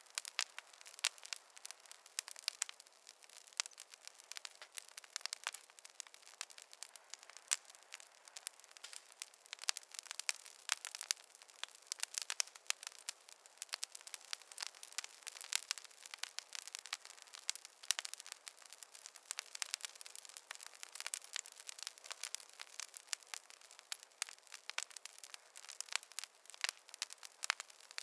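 Wood fire crackling in a fireplace: a dense, irregular run of small pops and snaps, with no low rumble under them.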